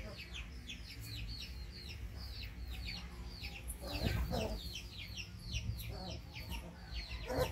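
Birds chirping steadily in the background, quick high downward-sliding chirps several times a second. A short lower call sounds about four seconds in and again at the end.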